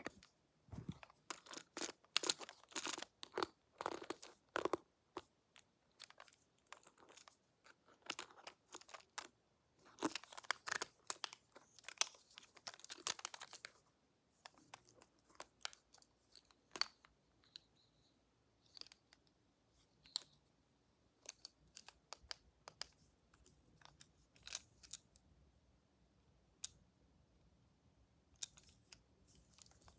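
Close-up ASMR handling sounds of pretend barber tools: crisp crackling and scratching in dense bursts for about the first half, then scattered clicks and taps.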